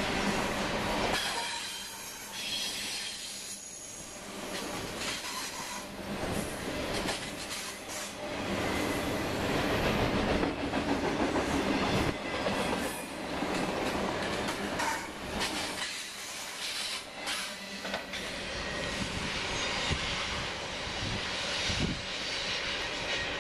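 Double-stack intermodal freight cars rolling past on steel wheels: a continuous rumble and rush of wheel-on-rail noise, broken by scattered clicks.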